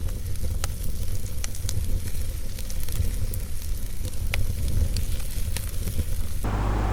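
Wood fire burning in a fireplace: a steady low rumble of flame with scattered sharp crackles and pops from the burning logs. A short burst of louder hiss starts near the end.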